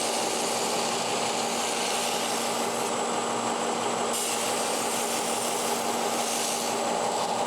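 Steel knife blade held against a running motor-driven abrasive finishing machine: a steady motor hum under a continuous rasping hiss of abrasive on steel. The hiss changes a little about four seconds in.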